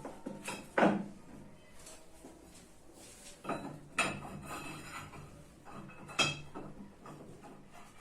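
Metal parts clinking and knocking together as they are handled: several sharp knocks, the loudest about a second in, two of them with a short metallic ring.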